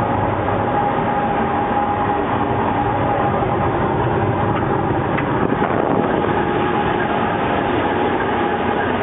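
Cab noise of a DF11G diesel locomotive under way: the steady din of its diesel engine and running gear, with a steady high whine running through it.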